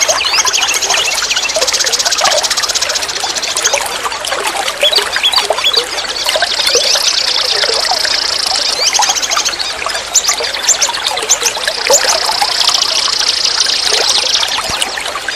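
Forest stream flowing and trickling, with songbirds singing over it: scattered high chirps and three stretches of rapid, high trilling.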